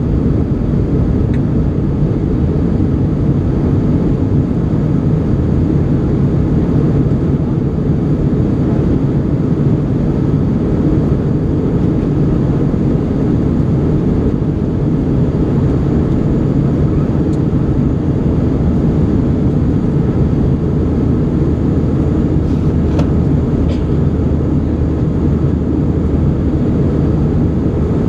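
Steady low rumble of an Airbus A320 heard from inside the passenger cabin: engine and airflow noise with a constant hum, a few faint ticks near the end.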